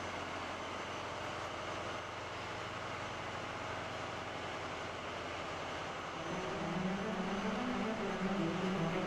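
Steady noisy vehicle rumble, joined about six seconds in by an engine's low pitched drone that wavers up and down and grows a little louder.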